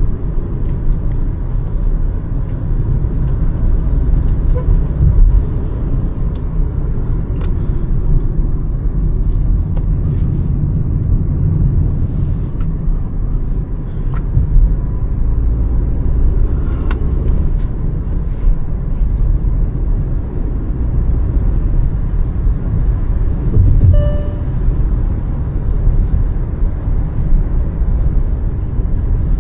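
Hyundai Verna's 1.5-litre turbo-petrol four-cylinder engine running under way, with a steady low rumble of engine and road noise from the moving car. A brief pitched tone sounds late on.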